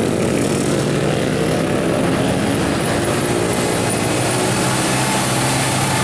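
Heavy diesel truck engine running at a steady, even pitch.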